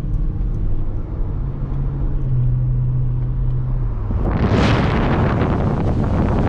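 Low, steady drone of a moving car with a faint engine hum, then about four seconds in a sudden loud rush of wind noise over a GoPro's microphone as it is pushed out of the car's sunroof into the airflow at about 50 to 60 km/h.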